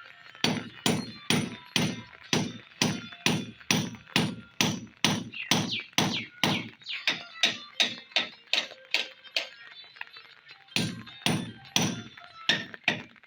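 Repeated hammer blows, about two a second and evenly spaced, breaking off briefly about ten seconds in and then starting again.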